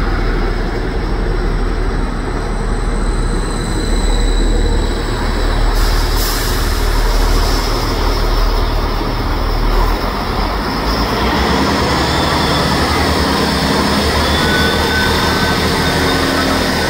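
Diesel passenger trains running steadily. First a CrossCountry diesel multiple unit rolls past along the platform, then a Greater Anglia Class 755 bi-mode unit pulls away under diesel power. The deep engine hum changes about ten seconds in.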